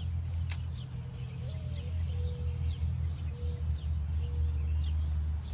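Small birds chirping, a series of short high notes repeating about every half second, over a steady low rumble.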